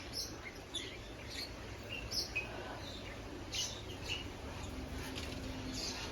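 Caged pet-shop birds giving short, high chirps, scattered irregularly with no steady rhythm.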